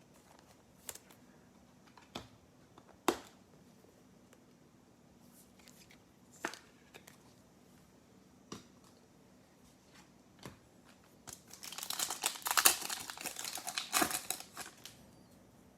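Scattered sharp clicks of trading cards being handled, then, about eleven seconds in, a few seconds of crinkling and tearing as a foil trading-card pack is ripped open.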